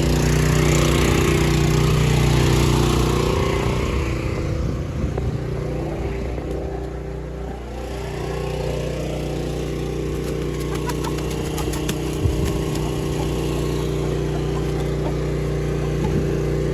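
An engine running steadily, with a hiss over it for the first few seconds that then fades away.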